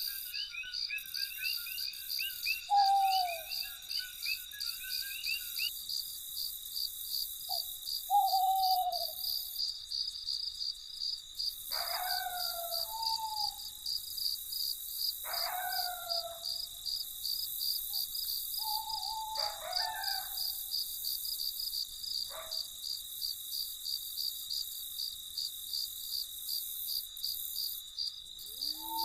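Night crickets chirping in a steady, fast, high pulsing chorus. Over it, a bird sings a warbling trill for the first few seconds, and a few short, falling calls come every few seconds.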